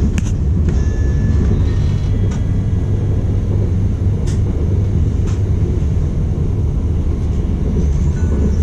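KLIA Transit electric airport train running at speed, heard from inside the carriage as a steady low rumble, with a few light clicks scattered through it.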